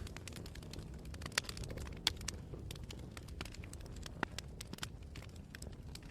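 Campfire crackling: sharp pops and snaps at irregular intervals over a low, steady rumble, with slightly louder pops about a second and a half, two seconds and four seconds in.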